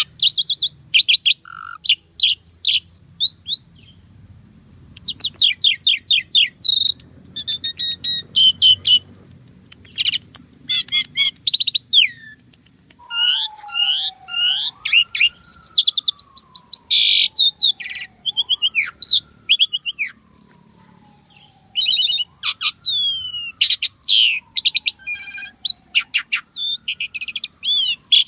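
Pied starling (jalak suren) singing continuously: fast, varied chattering and whistled notes. In the second half a lower sliding whistle repeats about every four seconds.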